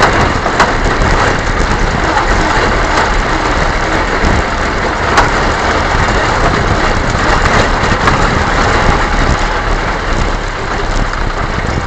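A vehicle on the move over a rough track: steady engine and road noise with a few sharp knocks.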